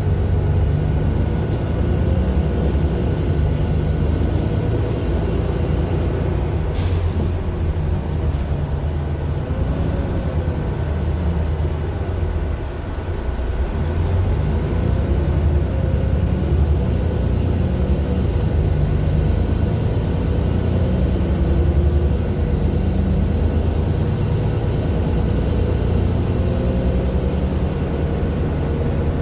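Mercedes-Benz Citaro LE city bus under way, its Daimler OM 457 hLA six-cylinder diesel running steadily. The engine note dips about 13 seconds in, then builds again. There is one short click near the 7-second mark.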